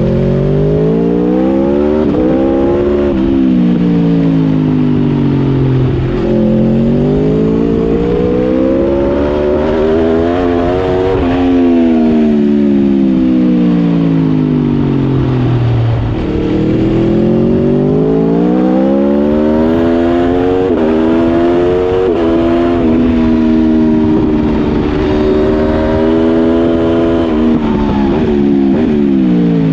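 Aprilia RSV4 1100's V4 engine, recorded on the bike at speed on a racetrack: it accelerates hard through the gears with quick upshifts that drop the pitch in steps, then the revs fall away for long stretches under braking and downshifting, about four times in turn.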